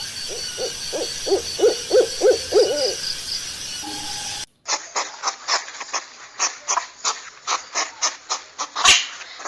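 An owl hooting, a series of short hoots repeated about three times a second over a hissy background. Then a different animal recording cuts in, with a rapid series of sharp clicky calls.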